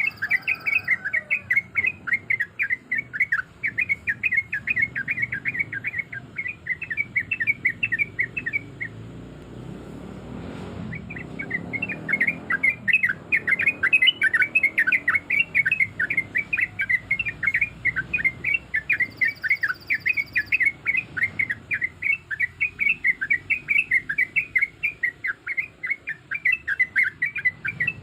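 Yellow-vented bulbul singing a long, fast run of repeated notes, about four or five a second. The run breaks off briefly about nine seconds in and then carries on.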